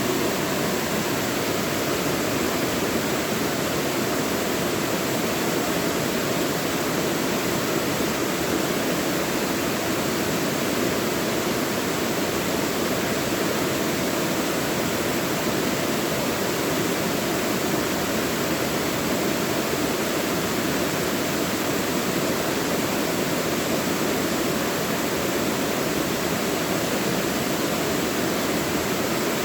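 Mountain valley stream rushing steadily over rocks, a dense, unbroken water noise with no distinct splashes.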